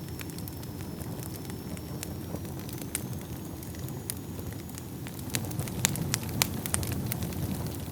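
Wood fire burning in a fireplace: a steady low rumble of flames with scattered crackles and pops, which come thicker and louder in a cluster about two-thirds of the way through. A faint thin high whistle runs underneath.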